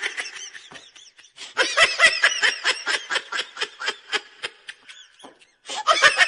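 High-pitched giggling laughter: a quick run of short pulses, with a shorter burst at the start and another near the end.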